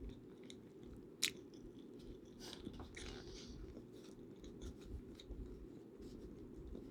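A person chewing food close to the microphone, with small wet mouth clicks and one sharp click about a second in, over a steady low hum.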